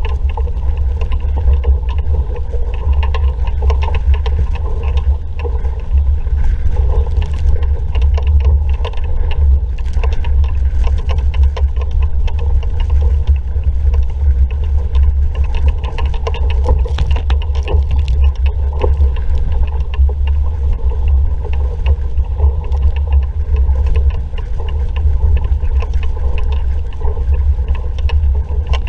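Strong wind buffeting the microphone as a sailing dinghy goes along in a fresh breeze, with water rushing and splashing along the hull. The low wind rumble is the loudest part and runs unbroken, with frequent small splashes on top.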